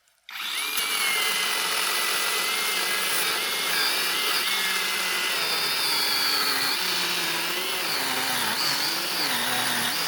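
Chainsaw running and cutting firewood, its engine pitch wavering up and down under load. It starts abruptly about a third of a second in.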